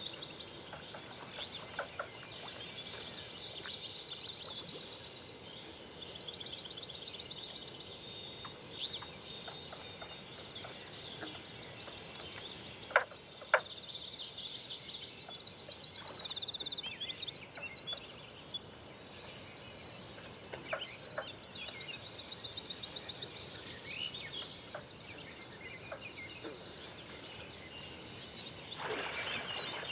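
Forest ambience: overlapping high, rapidly pulsing trills that repeat in long series, with scattered short bird chirps. Two sharp clicks come about thirteen seconds in.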